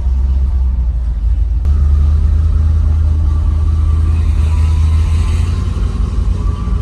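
Deep, steady rumble of a truck engine and exhaust running close by, with an abrupt change in the sound about a second and a half in.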